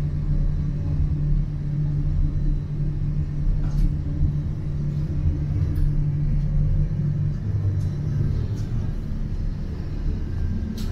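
Gornergrat Railway electric rack-railway train running, heard from inside the carriage as a steady low rumble and hum, with a few faint clicks and the hum shifting in pitch about eight seconds in.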